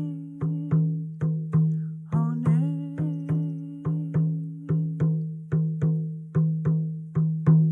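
A woman singing a Lakota song over a steady drumbeat of about three to four strokes a second, each stroke ringing on one low note. Her voice holds long notes up to about a second in and again from about two to five seconds in; the rest is the drum alone.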